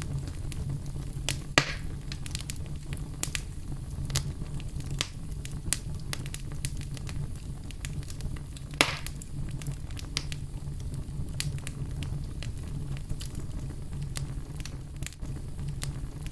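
Wood fire burning in a fireplace: a steady low rumble of flames with constant small crackles and two louder pops, about one and a half seconds in and again about nine seconds in.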